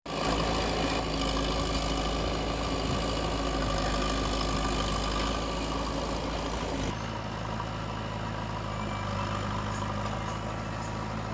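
Heavy diesel engine running steadily, its note changing about seven seconds in.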